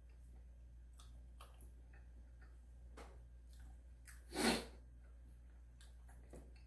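Faint clicks of someone eating soft mochi roll cake up close, with one short, breathy burst of air, a sharp breath, about four and a half seconds in.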